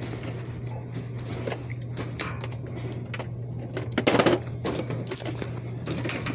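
Steady low hum with scattered clicks, rustles and clatter of things being handled, the loudest clatter about four seconds in.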